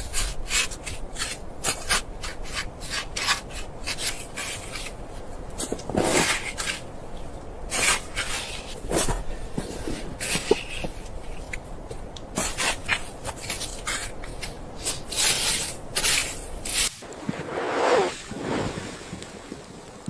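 Irregular short rubbing and scraping strokes, like something being handled or worked by hand, over a low steady rumble that stops about seventeen seconds in.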